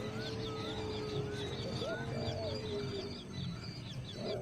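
Birds calling: rapid, repeated high chirps over a long, low, steady cooing note, with a few short rising whistles.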